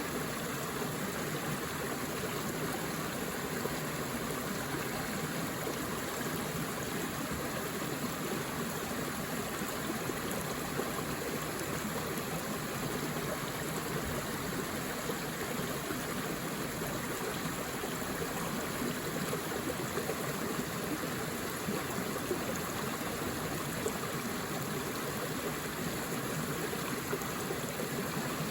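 Forest stream flowing over rocks, a steady rush of water without change.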